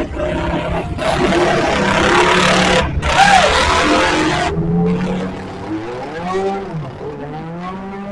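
Motorcycle engine running, its pitch rising and falling near the end as it is revved, with a loud rushing hiss over it for a few seconds that breaks briefly about three seconds in.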